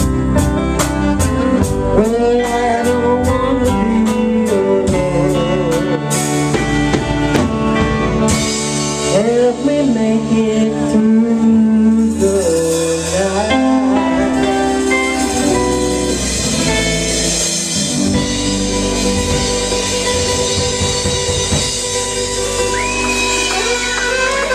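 Live band playing the instrumental close of a slow country ballad: drums ticking steadily about four times a second, cymbal crashes about six and eight seconds in, then a wavering lead melody over held chords and bass.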